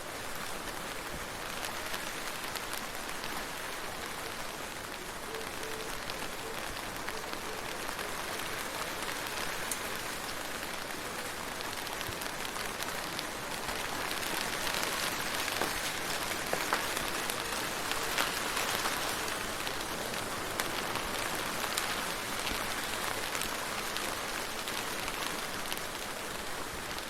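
Steady rain falling, a dense hiss full of small drop ticks, swelling slightly louder about halfway through.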